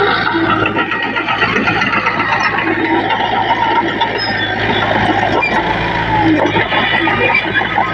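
Heavy diesel earthmoving machinery running steadily under load, with short squeaks scattered through it.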